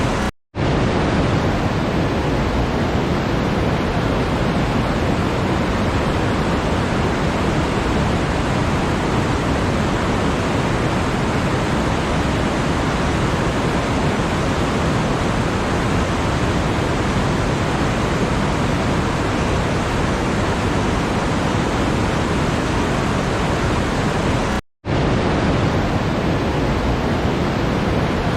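Steady, even rushing noise with no pitch or rhythm, strongest in the lows and mids. It cuts out to silence for a split second twice, about half a second in and near the end.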